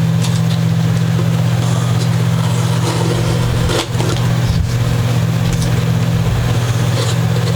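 Steady low machine hum with no change in pitch, and a couple of brief clicks about four seconds in.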